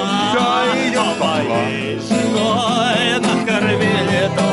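Voices singing a drawn-out, wavering melody together over a strummed acoustic guitar: a campfire sing-along.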